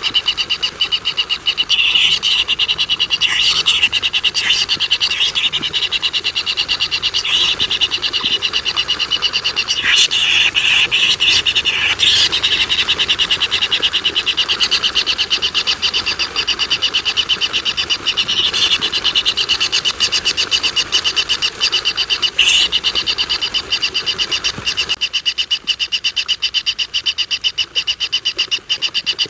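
A steady chorus of very fast, high pulsing animal calls, like a frog or insect chorus, with a few louder short calls laid over it about two seconds in, around ten to twelve seconds in, and again after about twenty-two seconds.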